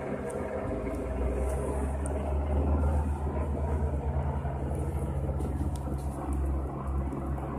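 Helicopter flying nearby: a low rumble with rapid rotor thudding that swells to its loudest about two to three seconds in, then eases off.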